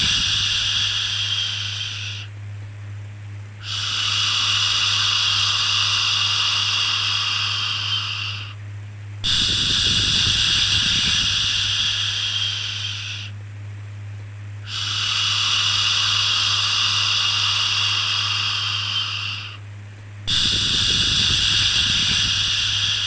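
Long drawn-out 'shhh' shushing, repeated about every five and a half seconds with a short breath-like pause between, as used to soothe a baby to sleep. A steady low hum runs underneath.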